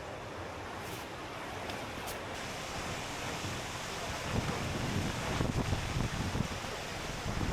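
Waterfall rushing: a steady hiss of falling water. From about four seconds in, wind buffets the microphone in low, uneven gusts.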